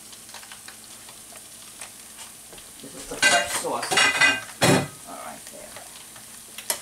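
Raw sausages frying in oil in a nonstick skillet, giving a steady light sizzle. About three seconds in comes a louder stretch of short sounds lasting a second or so, ending in a sharp knock.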